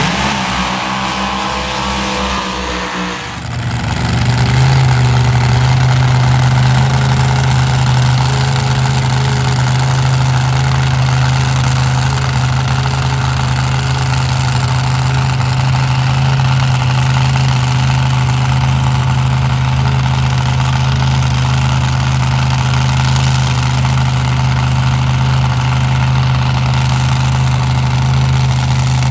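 A vehicle engine runs with rising revs, dips briefly about three seconds in, then holds a steady drone at constant speed.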